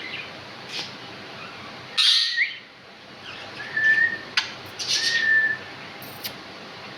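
Pet talking bird calling: a loud chirp about two seconds in, then two short whistled notes and sharp smacking clicks, the kissing sounds it makes.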